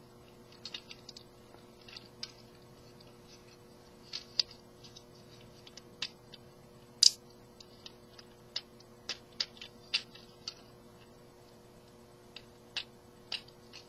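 Scattered small plastic clicks and snaps of a Transformers action figure's joints and parts being moved during transformation, the sharpest about seven seconds in, over a faint steady hum.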